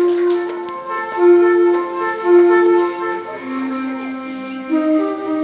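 A flute-like wind instrument playing a slow melody. It sounds the same held note three times, then moves to lower notes about three seconds in.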